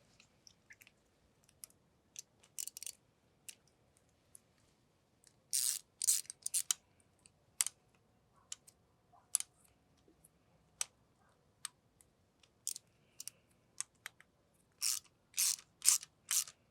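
Hand tool turning a new bolt into a freshly drilled-out and re-tapped bolt hole in a two-stroke outboard engine block: scattered metallic clicks and short rasping strokes. The loudest strokes come in a group about six seconds in and as four strokes about half a second apart near the end.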